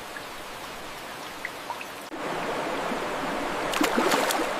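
Steady sound of water, rain or flowing, which becomes louder and fuller about two seconds in.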